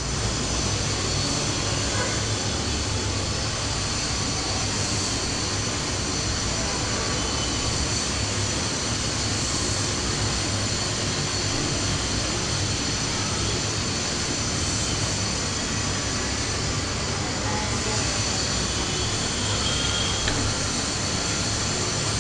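Steady, even mechanical whooshing hum, unchanging throughout, like a running fan or motor.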